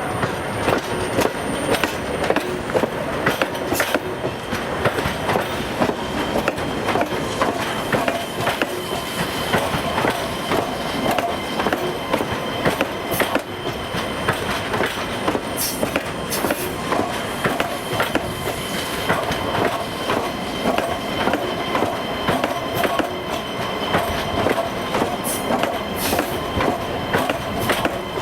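EG2Tv 'Ivolga 2.0' electric multiple unit rolling slowly through station pointwork. Its wheels clatter steadily over rail joints and switches, with some wheel squeal on the crossovers.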